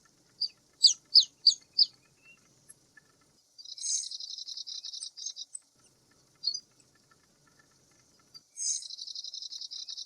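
Bird calling: a quick run of five sharp, falling notes, then twice a long, rapid chattering trill, over a faint steady insect hiss.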